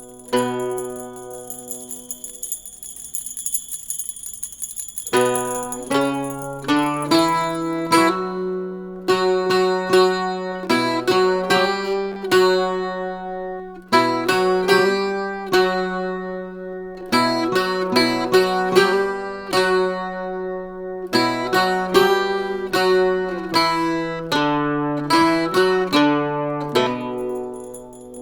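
Mandolin and octave mandolin playing an instrumental piece: for the first five seconds a few held notes under a steady high shimmer, then a fast picked melody over a repeated low note.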